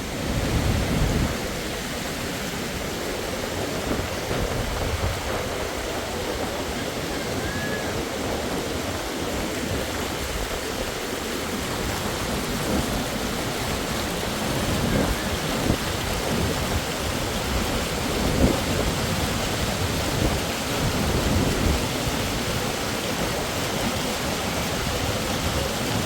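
Waterfall's rushing water, a steady, even rush of noise, with irregular low rumbles on the microphone, the loudest about a second in.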